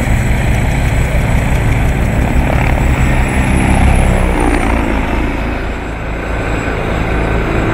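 T129 ATAK attack helicopter in flight: rotor blades beating fast and evenly over the steady run of its turbine engines, loud and unbroken.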